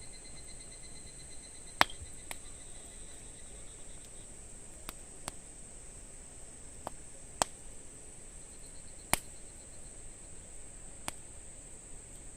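A wood campfire crackling, with sharp pops every second or two, some of them loud. Under the pops runs a steady high-pitched insect trill.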